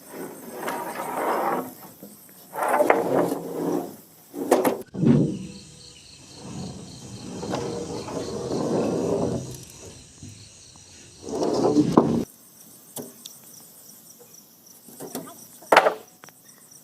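Crickets chirping steadily at night, with several stretches of people's voices talking over them; no engine running.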